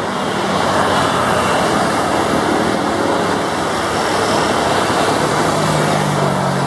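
Beech G36 Bonanza propeller aircraft passing, a steady rushing noise with a low engine drone coming up near the end.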